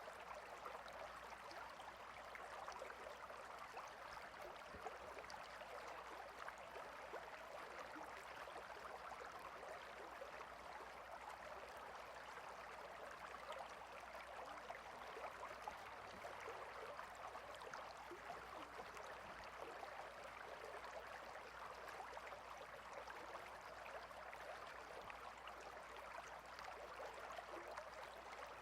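Stream water flowing and babbling steadily and softly, with no breaks.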